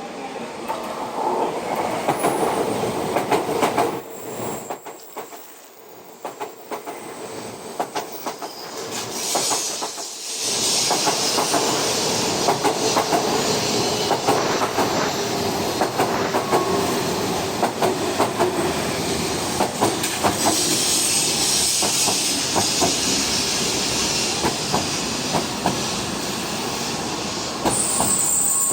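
Tokaido Shinkansen train pulling into Tokyo Station at low speed, its wheels clicking over rail joints and points, with stretches of high wheel squeal and hiss. A steady high hiss starts near the end.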